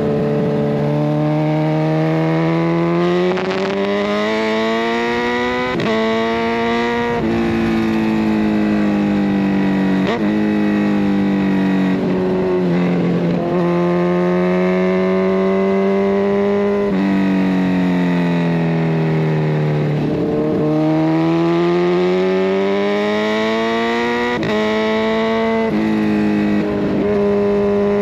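Kawasaki Ninja 1000SX inline-four running through a decat pipe and Scorpion Red Power exhaust, on the move. The revs climb and drop sharply at each of several gear changes, with slower falls in pitch where the throttle is eased off.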